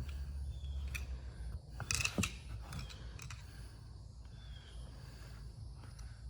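Small metallic clicks and scrapes of hand tools and a steel snap ring being worked into place, with a cluster of sharper clicks about two seconds in, over a low hum.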